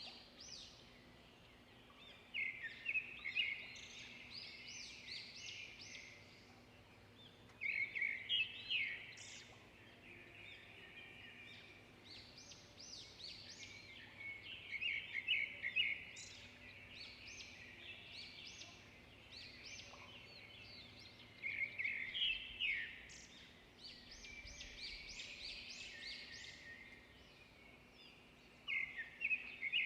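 A songbird singing: quick runs of high chirping notes, a fresh phrase about every six to seven seconds with fainter chirps in between, five phrases in all.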